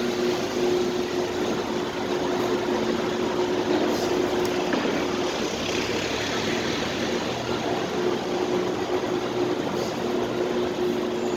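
Steady ambient noise of a supermarket car park: an even wash of machinery and traffic noise with a constant low hum running through it.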